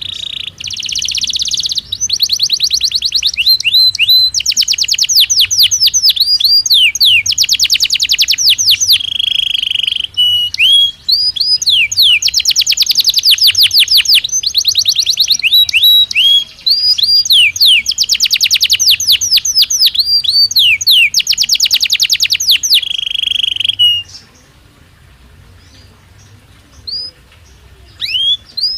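Belgian canary singing: long fast trills, rolls and swept whistled notes, with only brief breaks. The song stops about 24 seconds in, and a few single notes follow near the end.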